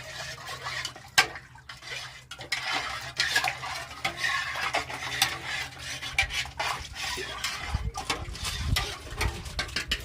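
A metal utensil stirring in a pot or bowl, clinking and scraping against its sides, with a low rumble in the second half.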